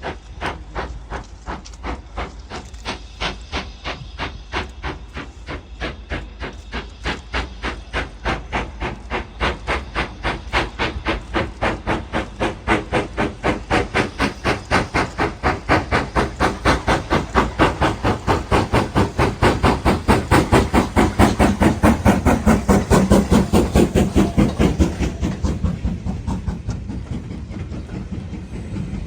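BR Standard Class 5MT steam locomotive 73082 Camelot working past under steam, with a steady run of sharp exhaust beats. The beats grow louder as it approaches, are loudest about three-quarters of the way through, and fade away near the end as it passes.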